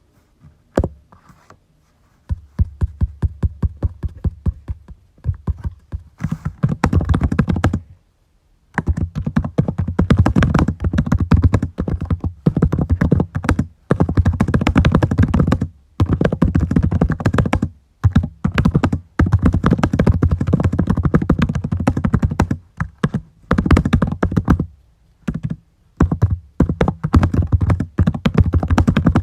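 Typing on a computer keyboard in fast runs of key clicks, broken by short pauses of about a second.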